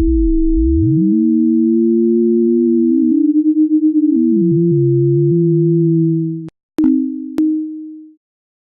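Pure sine tones from a browser synthesizer played like a theremin, their pitch set by a person's tracked body movement: one tone holds steady while a second slides down to a low hum, climbs back until the two meet and beat against each other, then falls again. The tones cut off about six and a half seconds in, followed by two short, fading two-note blips.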